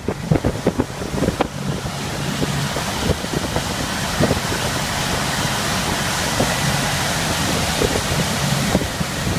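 Bayliner 2655 Ciera Sunbridge cruiser under way at speed, its sterndrive engine droning steadily beneath heavy wind noise on the microphone and water rushing past the hull. The rush grows louder about two seconds in as the boat picks up speed.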